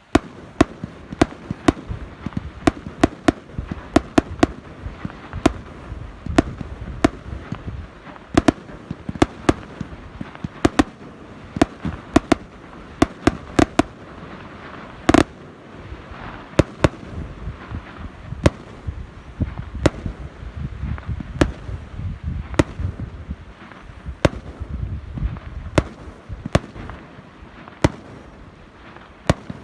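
Fireworks display going off: rapid, irregular bangs and cracks of bursting shells, several a second, over a low rumble, with one especially loud bang about halfway through.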